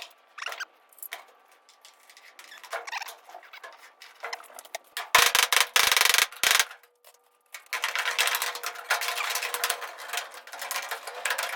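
Scratching and scraping on sheet-metal ductwork as an outline is traced onto the duct: scattered light ticks and scrapes, a loud dense scraping stretch about five seconds in, then a longer run of scraping from about eight seconds on.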